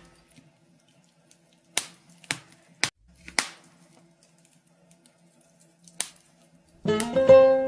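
Wood fire in a fireplace crackling: a few sharp, separate pops and snaps spread over several seconds. Plucked-string folk music starts up again near the end.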